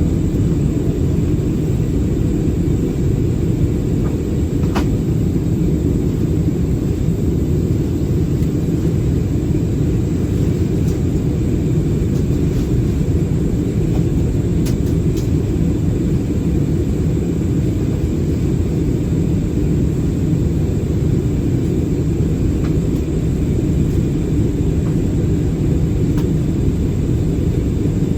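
Steady low roar of an Airbus A320-216's CFM56 engines and airflow heard inside the passenger cabin in flight, with a couple of faint clicks.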